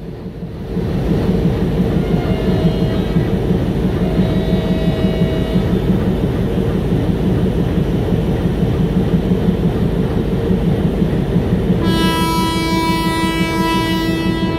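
An arriving Indian Railways express train with its electric locomotive, a steady low rumble throughout. Faint short horn toots come about two and four seconds in, then a long, loud locomotive horn blast sounds near the end, lasting over two seconds.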